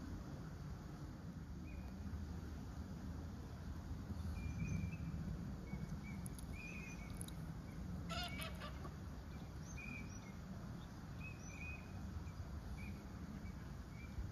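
Faint bird chirps scattered over a steady low background rumble, with a short burst of harsher, repeated calls about eight seconds in.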